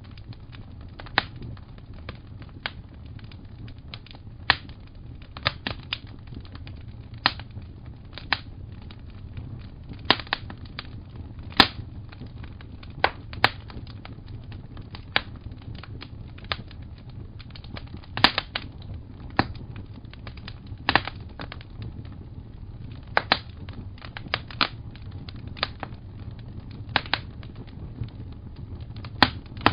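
Fireplace crackling: irregular sharp pops and snaps, roughly one or two a second, over a steady low rumble.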